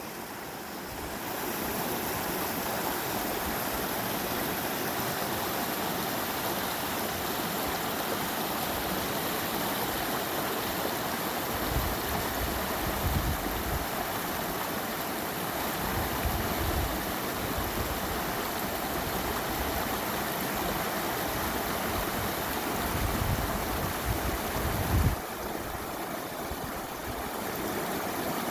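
Water rushing steadily down rocky creek cascades. Irregular low rumbles come and go through the middle stretch.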